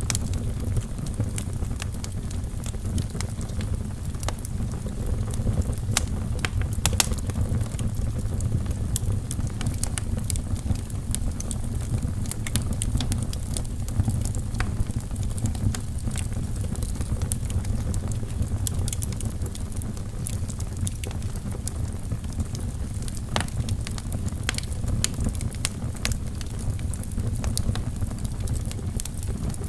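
Wood fire burning in a fireplace: a steady low rumble of flames with frequent sharp crackles and pops from the burning logs, irregularly spaced.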